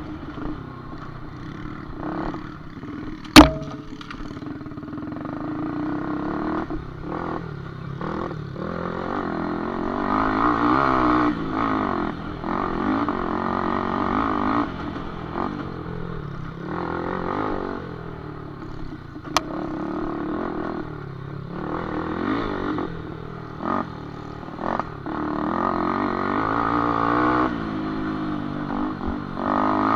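Small underbone motorcycle engines revving up and down, pitch rising and falling as they ride a dirt track, with a sharp knock about three seconds in and a lighter click midway.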